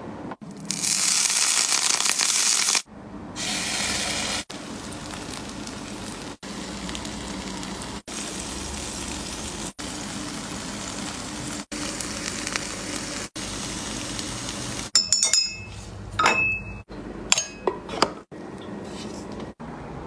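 Food sizzling in hot oil in a pan, loudest in two hissing spells near the start and then settling to a steady sizzle. Sharp clinks of utensils or dishes come in the last few seconds.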